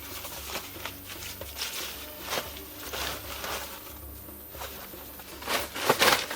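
Irregular scraping and knocking sounds of hand work, with a louder cluster of scrapes near the end.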